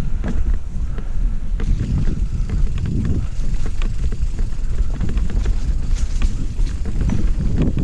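Mountain bike riding along a dirt trail, filmed on a GoPro: a steady low rumble of wind on the microphone, with many scattered clicks and rattles from the bike.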